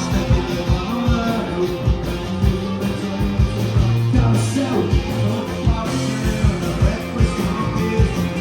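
A live rock band playing with drums, guitar and singing, driven by a steady drum beat.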